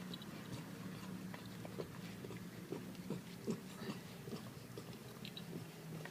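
Mother dog licking her newborn pup clean: irregular wet licks and smacks in quick, uneven succession.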